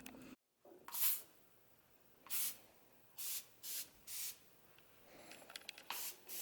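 Febreze Air freshener spray hissing in about six short squirts, one after another, a second or so apart.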